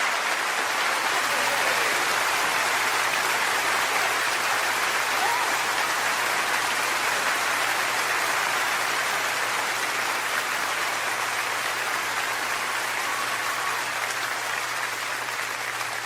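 Concert audience applauding and cheering, a dense steady clapping that starts to die away near the end.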